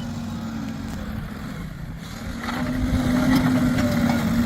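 Diesel engine of a JCB 3DX backhoe loader running with a steady hum, growing louder about two and a half seconds in as it picks up.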